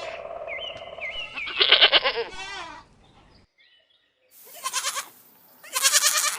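Goat bleating: a long wavering bleat about two seconds in, then after a short silence two more bleats near the end.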